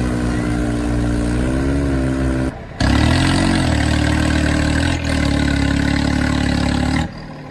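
Tractor diesel engine running hard under load, its pitch dipping and recovering as it labours. The sound breaks off abruptly about two and a half seconds in, resumes, and drops away near the end.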